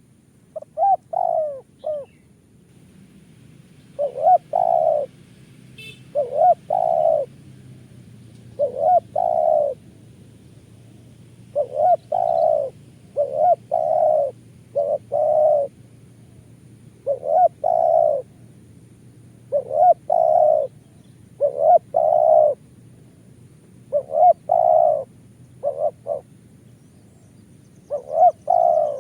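Spotted dove cooing: short phrases of two to four coo notes, repeated every two to three seconds.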